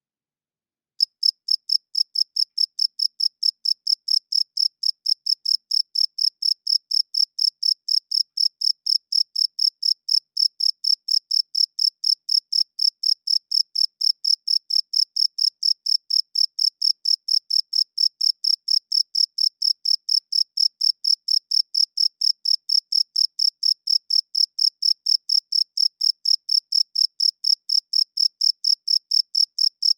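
Male cricket chirping by rubbing its wings together: a steady, high-pitched chirp repeated about four times a second, starting about a second in.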